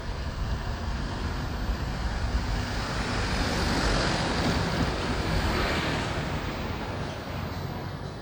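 Wind rushing over the microphone, mixed with road and engine noise from a moving motorbike. The rush swells around the middle and eases toward the end.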